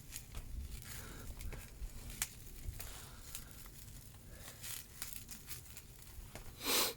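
Faint, scattered crackles and ticks from a fire burning in a metal burn drum, with a lit firework in it that has not yet gone off. A short, louder hiss comes near the end.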